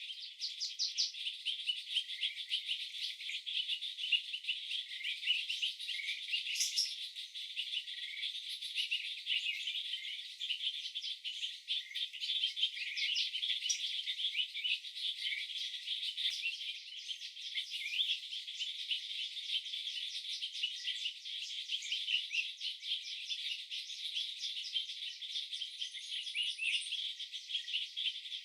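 Rain pattering: a dense, irregular patter of small drops, thin and crackly with no low end.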